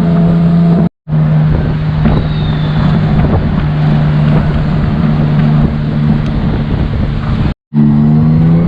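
Tuk-tuk engine running steadily under way, with wind and road noise. The sound cuts out for a split second twice, about a second in and near the end.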